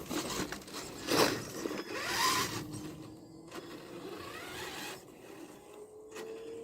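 Tamiya TXT-2 RC monster truck driving: its electric motor and gears whine steadily, rising slowly in pitch. About one and two seconds in there are loud rasping scrapes, like the tyres or chassis grinding over the ground.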